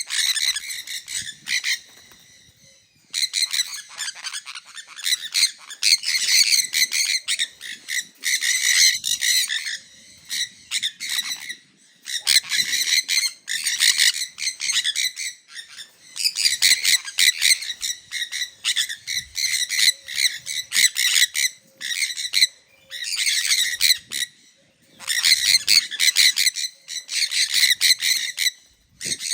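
Sun conures screeching: high-pitched, harsh calls repeated rapidly in runs of a few seconds, with short pauses between the runs.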